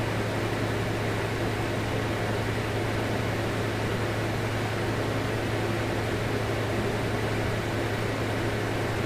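Steady low hum with a hiss: a fan-type machine running without change.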